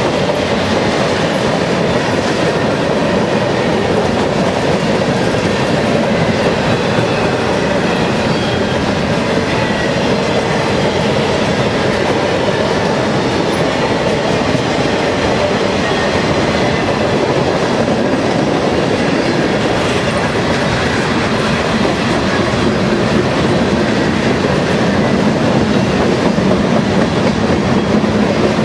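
Mixed freight train's cars rolling past close by: steel wheels rumbling on the rails with a steady clickety-clack over the rail joints, unbroken throughout.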